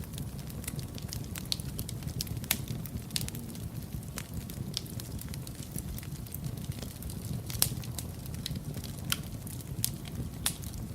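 Wood fire burning in a fireplace: a steady low rumble of flames with irregular sharp crackles and pops, a few a second.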